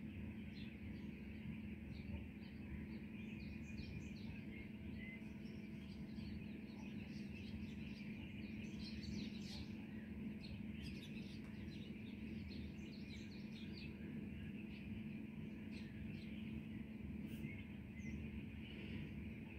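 Birds chirping: many short, high calls scattered throughout, busiest midway, over a steady low hum.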